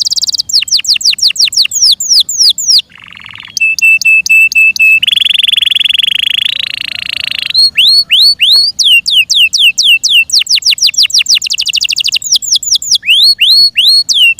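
F1 Yorkshire canary singing loudly in changing phrases: fast series of high whistled notes that each slide downward, a run of short steady notes, and a long rolling trill about halfway through, then the slides speed up into a rapid trill before slowing again.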